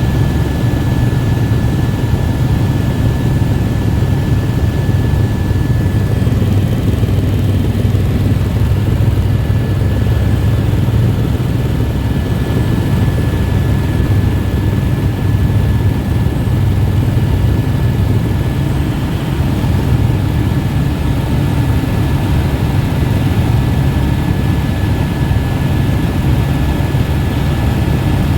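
Helicopter running steadily in flight: a loud, unchanging low drone with a thin steady whine above it.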